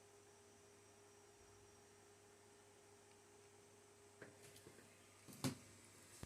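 Near silence: room tone with a faint steady hum, then a few soft clicks and rustles in the last two seconds, one sharper click about five and a half seconds in.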